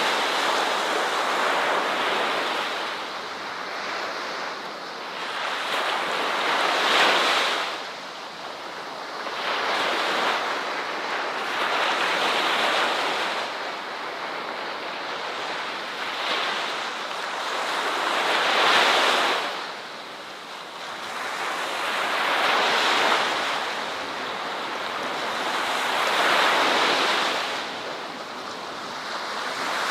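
Ocean waves breaking on a beach: a surf hiss that swells and falls back, with a fresh surge every four to six seconds.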